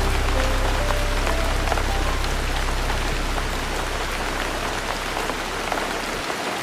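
Steady rain pattering, layered over a soft instrumental ballad. A few quiet melody notes sound in the first two seconds, and a low sustained bass tone fades out near the end.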